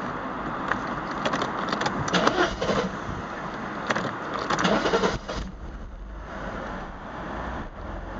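Mercedes-Benz R129 300SL straight-six idling roughly, with irregular louder bursts and clicks between about one and five seconds in, then running steadier. The engine has been misfiring and runs badly.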